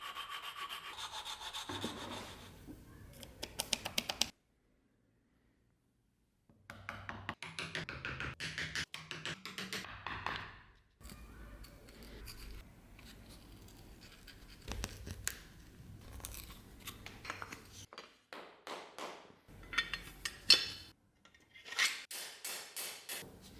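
Hand tools working by hand in short edited clips: repeated rubbing and scraping strokes, with a brief dead-silent cut about four seconds in and a quick run of sharp scratching strokes near the end.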